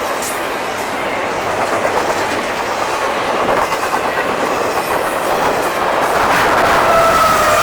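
Double-stack intermodal freight cars rolling past, wheels clicking over the rail joints in a steady rumble. A thin wheel squeal comes in near the end.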